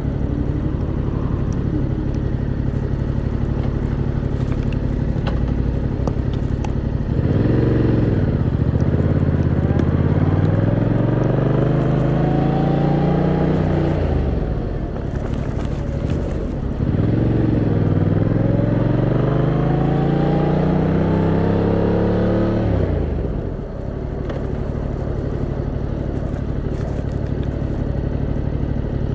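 Yamaha MT-07's 689cc inline-twin engine running steadily, then accelerating hard twice in the middle, each time the revs climbing for several seconds and then dropping away sharply, before it settles back to a steady low run near the end.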